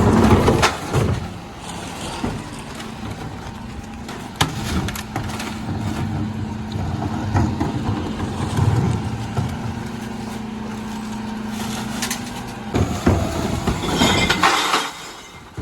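Dennis Elite 6 refuse truck at work on a recycling round: its engine and bin-lifter hydraulics running with a steady hum through the middle. Knocks and clatter from the bins throughout, and a loud noisy rush near the end.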